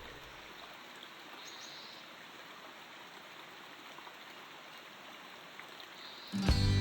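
Faint steady hiss in a gap between background music tracks, followed by relaxing instrumental music starting abruptly near the end.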